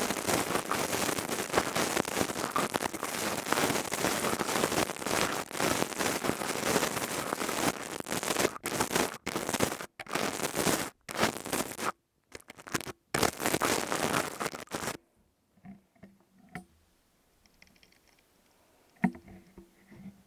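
Dense crackling, rain-like patter of an ASMR crystal tube worked close against the microphone. It breaks off briefly several times a little past the middle, then stops suddenly about three-quarters of the way in, leaving only faint soft clicks and taps.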